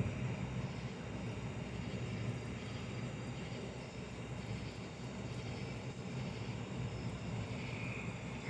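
Thunder rumbling, low and steady.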